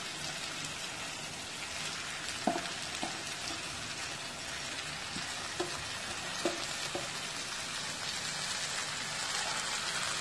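Chopped squid frying in onion-tomato masala in a nonstick kadai, a steady sizzling hiss. A few light taps stand out, the loudest about two and a half seconds in and a few more around six to seven seconds.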